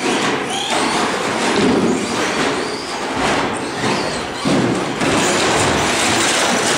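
Several radio-controlled short course trucks racing together, their motors whining in short rising glides over a constant clatter of wheels and chassis on the track.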